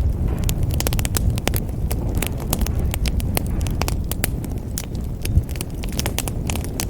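Wood fire burning in a fireplace: a steady low rumble of flames with many sharp, irregular crackles and pops throughout.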